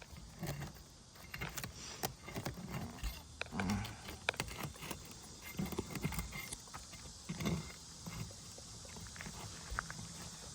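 Scattered scrapes and light clicks of a steel flat bar working under asphalt laminate shingles, prying them apart along the broken seal strip.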